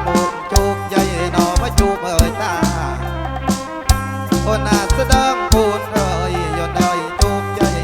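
Kantrum band playing an instrumental passage live through a loud PA sound system, with a heavy bass line under sharp, regular beats and a melody line.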